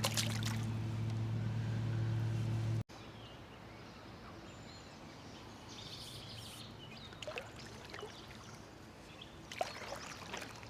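A steady low hum that cuts off abruptly about three seconds in, then quiet river ambience with faint trickling water and a few light clicks.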